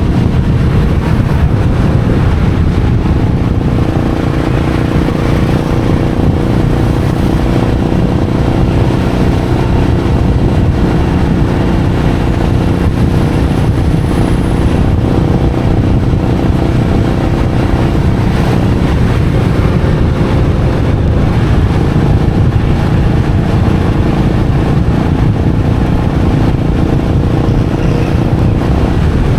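Royal Enfield Meteor 350's single-cylinder engine running steadily on the move, its exhaust note holding a fairly constant pitch.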